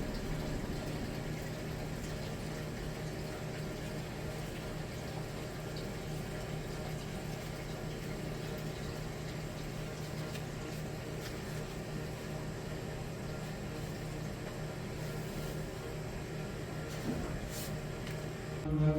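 Steady rush of running water, with a low machinery hum underneath.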